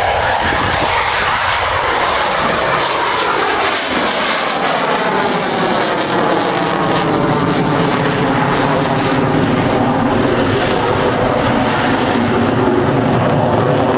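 Loud engine noise of a fixed-wing airplane flying past, a steady rush with a slowly sweeping, phasing quality as it passes.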